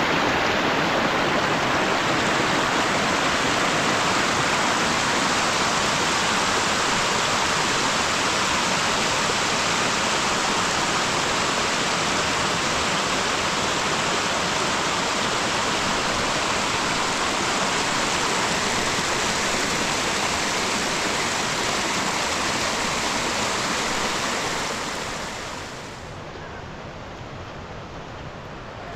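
Heavy rain falling as a steady, even rushing hiss. It turns quieter and duller about 25 seconds in.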